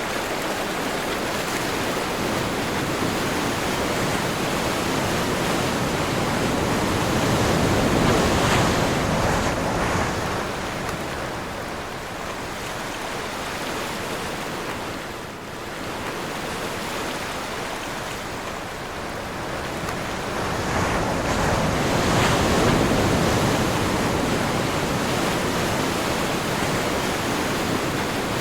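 Ocean surf washing in on a windy day, with wind blowing across it. It swells louder twice, about a third of the way in and again about three quarters through, with a lull between.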